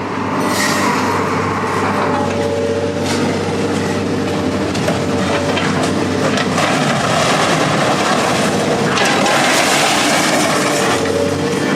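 Heavy machinery engine running steadily, with continuous crunching and cracking of scrap metal being handled.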